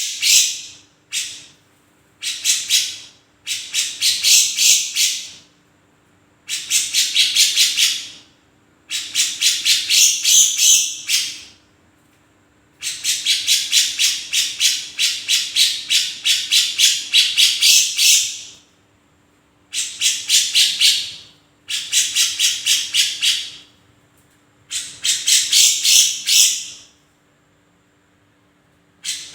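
Cucak jenggot (grey-cheeked bulbul) calling in bursts of rapid, fast-repeated rough notes. About ten bursts come, from a fraction of a second to about five seconds long, separated by short pauses. A faint steady low hum lies underneath.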